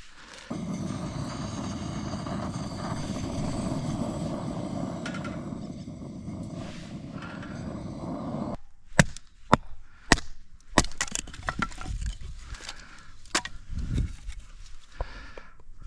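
A steady rushing noise for about eight seconds that cuts off suddenly, then a string of sharp, irregular cracks and snaps of dry wood, as kindling is handled while a campfire is being started.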